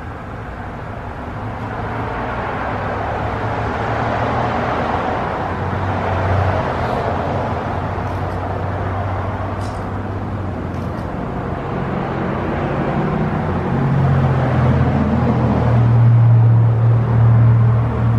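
A motor vehicle running, with engine and road noise that swells and eases, and a low steady hum that grows louder near the end.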